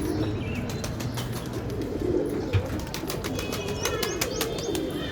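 Domestic pigeons cooing, a low wavering call repeated over and over, with many sharp clicks and taps mixed in and a single louder knock about halfway through. A few brief high chirps come near the end.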